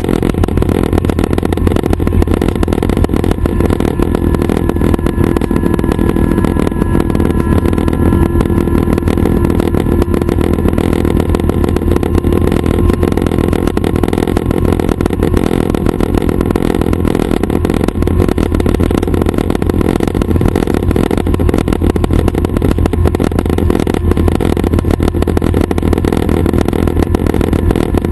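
Schweizer 269 light helicopter's piston engine and rotor running steadily: a constant loud drone, strongest in the low end, with no change in pitch or level.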